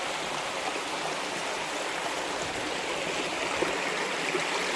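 Small rocky stream flowing steadily over stones, a continuous babbling rush of water.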